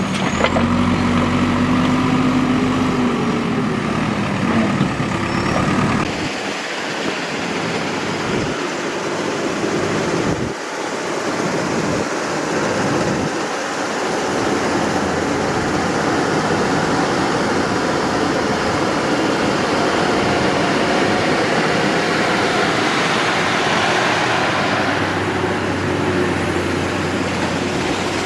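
Heavy diesel engine of construction machinery running under load, its note rising and dipping over the first few seconds. The low rumble then drops away and a steadier, noisier engine sound carries on.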